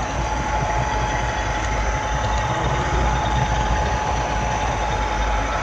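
Model railroad camera car rolling along the track, heard from a microphone riding on it. A steady rumble of small wheels on rail runs throughout, with a thin, steady high hum over it.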